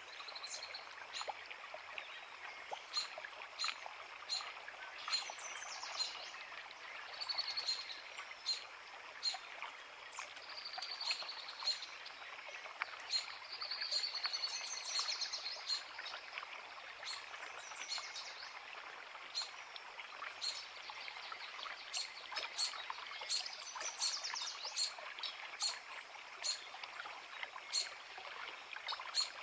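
A forest creek running steadily, with birds singing over it: many short high chirps throughout and several longer warbling phrases, the longest about halfway through.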